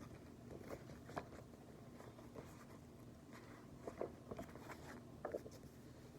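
Faint, scattered rustles and soft clicks of a paper picture book being handled and its pages turned, over quiet room tone.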